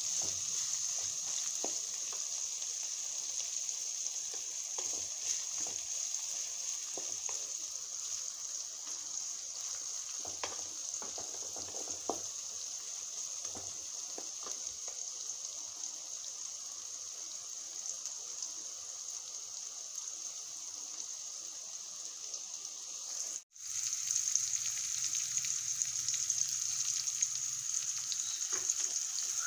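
Sliced bitter gourd with onion and green chillies sizzling steadily as it fries in oil in a metal wok, with occasional light scrapes and taps from a wooden spatula stirring it. The sound cuts out for an instant about four-fifths of the way through, then the sizzle returns a little louder.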